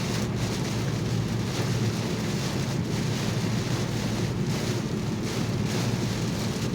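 Heavy rain on a moving car and its tyres on the wet road, heard from inside the cabin as a steady noise with a deep low rumble.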